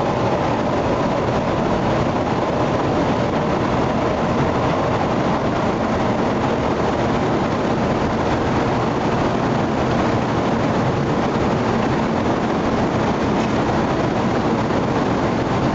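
N700-series Kyushu Shinkansen train running on the line: a steady, loud rushing noise that holds even throughout.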